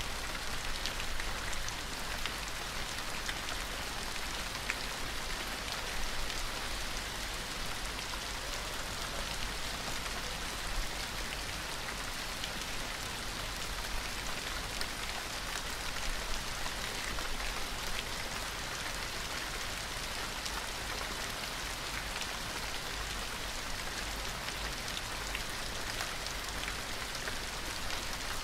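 Steady rain falling and pattering on a surface, an even hiss scattered with the ticks of single drops.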